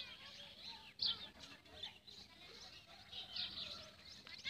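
Small birds chirping and twittering, many short high calls overlapping one another.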